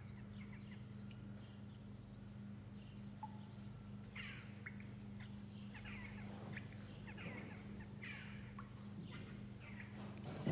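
Faint birds chirping, short repeated calls over a steady low hum.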